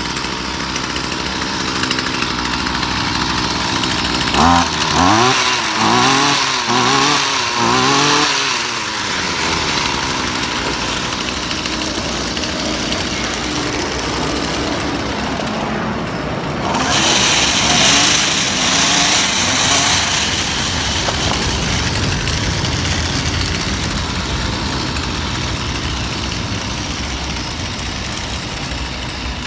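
Two-stroke string trimmer engine running steadily after its no-spark fault was cured with a new ignition coil and spark plug. It is revved up and down several times in quick succession about four seconds in, and opened up again briefly midway through.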